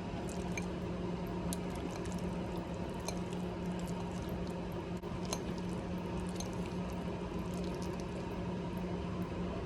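Wet squishing of creamy pasta being mixed, with scattered small clicks, over a steady hum.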